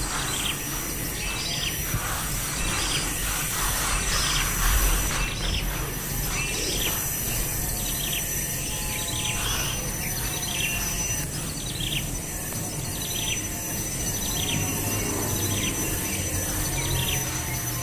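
A bird chirping: short downward-sliding chirps repeated roughly once a second. A steady high insect whine and outdoor background noise run underneath.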